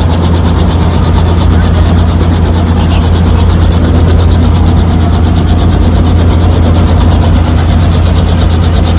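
Helicopter engine and rotor running loud and steady, with a low hum and a fast, even beat of the blades.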